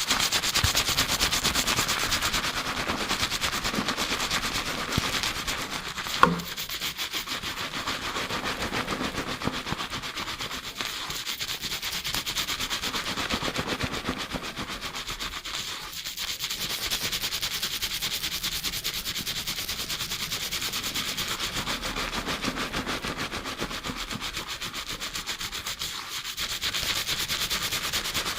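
Fast, continuous fingertip scrubbing of lathered hair and scalp during a shampoo, a rapid run of rubbing strokes recorded binaurally close to the head. One sharp knock about six seconds in.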